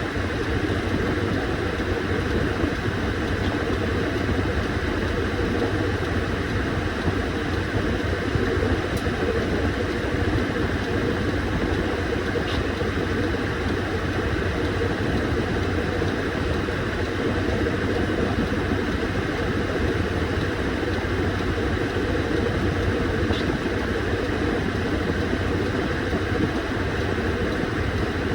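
Washing machine running steadily through its cycle, a constant motor hum with a whirring noise over it.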